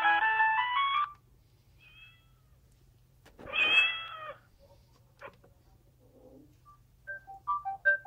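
Sagem myC-2 clamshell mobile phone playing ringtones through its small speaker: one melody cuts off about a second in, and near the end the next starts with quick, repeated notes. In between comes a single meow-like cry of about a second, the loudest sound here, followed by a few faint clicks.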